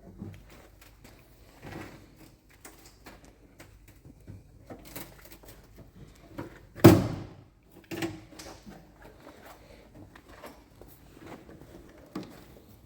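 Scattered knocks and clunks from hand work on a car's bodywork, with one loud bang about seven seconds in.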